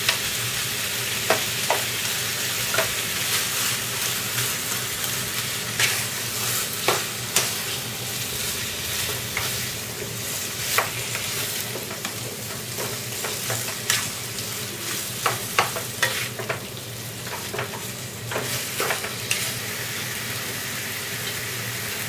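Chicken pieces in masala paste and yogurt sizzling in a pan while a spatula stirs them, its strokes scraping and clicking irregularly against the pan. The stirring stops near the end, leaving the steady sizzle.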